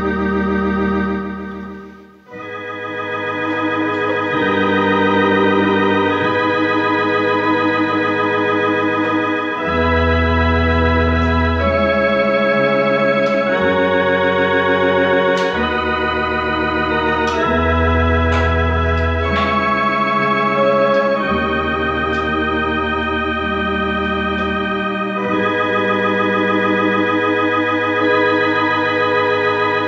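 Gambitt electronic organ fitted with a TYA sound-board kit, playing held chords with vibrato over sustained bass notes, the chords changing every second or two. The sound briefly dies away about two seconds in before the next chord.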